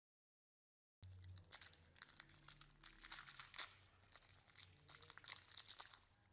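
Dense, irregular crackling and scratching made of many small sharp clicks. It starts suddenly about a second in after dead silence and cuts off abruptly at the end.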